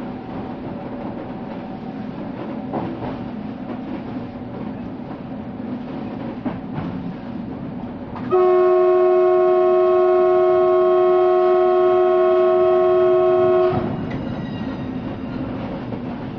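A train running on the rails, with a steady hum and an occasional click from the wheels. About eight seconds in, its horn sounds one long steady blast of several notes at once, the loudest sound, and cuts off after about five seconds.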